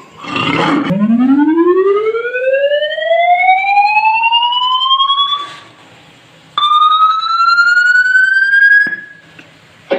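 Siren sound effect: a wail that rises slowly in pitch for about five seconds, then after a short gap a second wail that starts higher, climbs a little and cuts off suddenly. A brief noisy burst comes just before the first wail.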